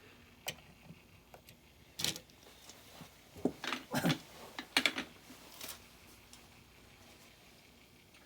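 Small clicks and knocks of a diecast model truck being handled and turned over, several in a row, thinning out after about six seconds.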